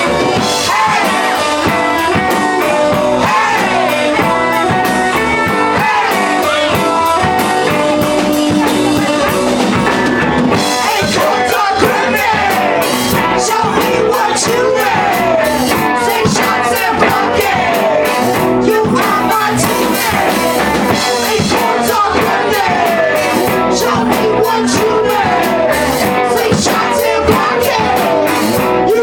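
Live rock band playing, guitar over drums, with the drums and cymbals coming in harder about ten seconds in.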